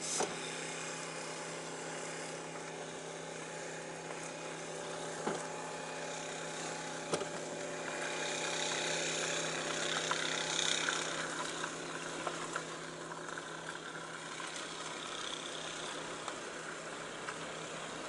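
Water pump motors running with a steady hum, pumping out floodwater after a downpour flooded the cattle pens. A couple of sharp knocks sound about five and seven seconds in.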